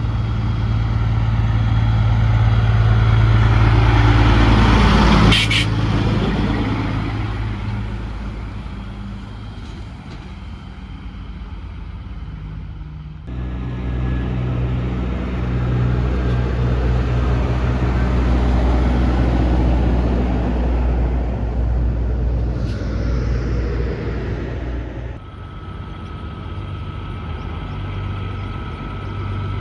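Heavy trucks running and passing by, with steady low engine sound. The first swells, then drops in pitch as it goes past, with a brief sharp sound at its loudest about five seconds in. The sound changes abruptly twice, to other trucks.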